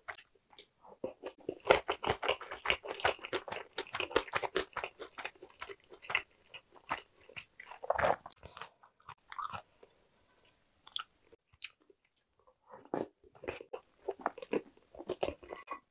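Close-miked wet chewing of spicy tteokbokki and boiled eggs: a quick run of sticky mouth clicks, one louder scrape or knock about eight seconds in, a short quiet gap, then chewing again near the end.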